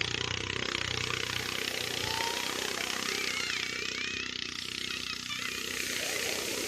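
A motor running steadily, a low even hum under a broad rushing noise.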